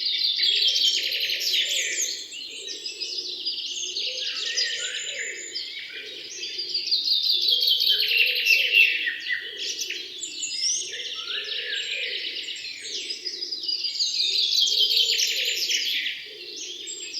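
Birds chirping and trilling together, a dense stream of rapid repeated notes.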